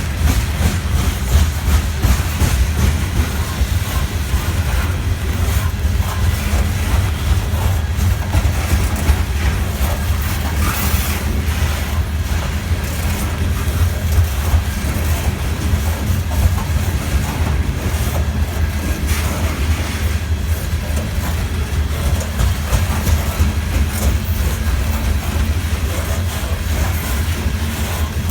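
Freight train cars rolling past, a steady heavy rumble with frequent clicks from the wheels passing over the rails.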